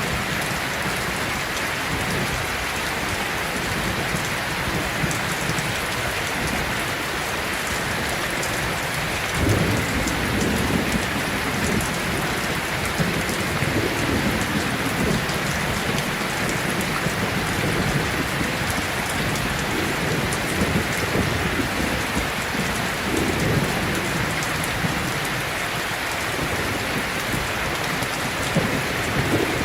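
Heavy rain falling in a steady hiss, with a low rolling rumble of thunder setting in about a third of the way through and going on in waves.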